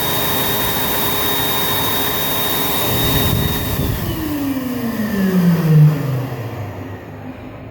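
Hair dryer blowing steadily with a thin high whine, then switched off a little over three seconds in: the motor's pitch falls as it spins down and the rush of air fades away.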